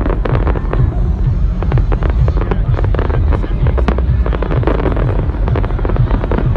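Fireworks going off in a dense run of bangs and crackles, over loud electronic dance music with a heavy, regular bass beat.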